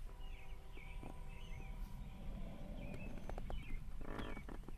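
Small birds chirping in the background, over a steady hum that stops about halfway through. A few light knocks and a short rustle come near the end.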